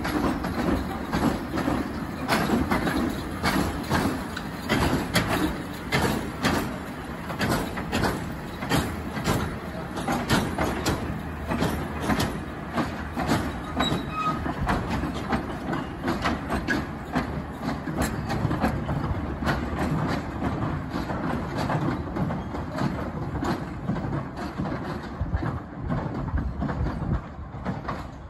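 Hythe Pier Railway's small electric narrow-gauge train running past along the pier, its wheels clicking over the rail joints in a rapid uneven clatter over a steady rumble of wheels and carriages.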